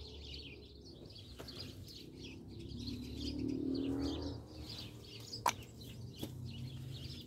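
Small birds chirping over and over in the background. A low drone swells and fades in the middle, and there is a single sharp click about five and a half seconds in.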